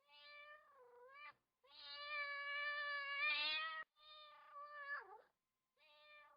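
A cat meowing repeatedly: four drawn-out meows. The second, in the middle, is the longest and loudest.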